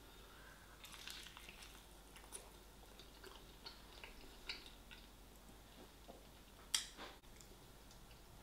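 Faint chewing of a mouthful of KFC fried chicken, with scattered small wet clicks and one sharper click about seven seconds in.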